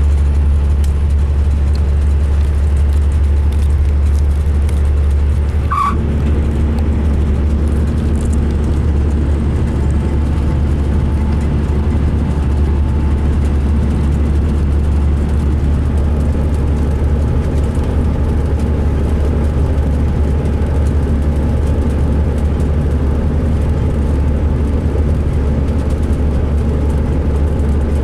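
2005 MCI D4500 coach's engine running with a steady low drone, which the uploader calls rough-sounding. A brief sharp squeak or click cuts in about six seconds in.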